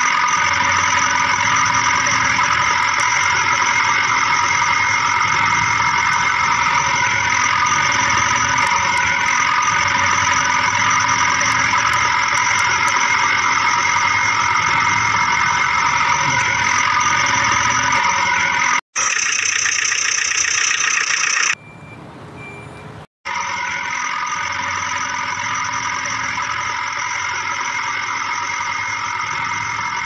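Steady, unvarying engine drone with several high held whining tones. It breaks off abruptly about two-thirds of the way through, gives way briefly to a different, brighter sound and then a quieter stretch, and resumes slightly quieter.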